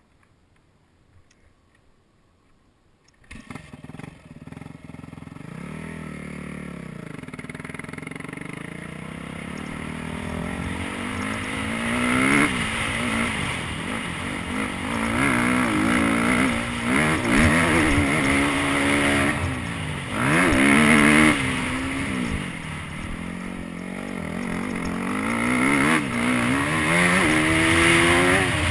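Near silence, then a dirt bike engine starts up about three seconds in and runs low with a blip. From about ten seconds in it revs up and down over and over as the motocross bike is ridden hard around the track.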